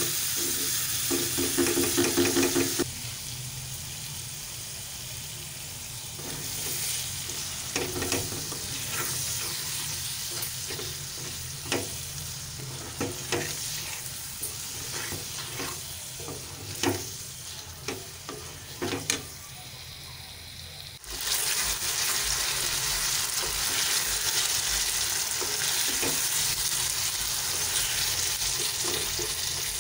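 Onions, tomatoes and meat frying in a metal pan, sizzling steadily while a wooden spoon stirs and knocks against the pan. A brief scraping near the start, and the sizzling becomes louder about two-thirds of the way in.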